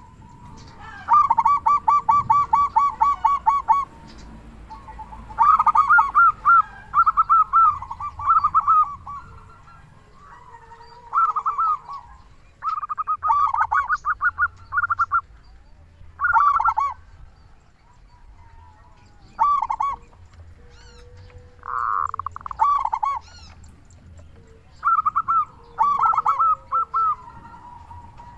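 Zebra dove (local Indonesian perkutut) cooing in a full, active song: phrases of rapid pulsed coo notes, each phrase lasting one to three seconds, repeated again and again with short pauses between them.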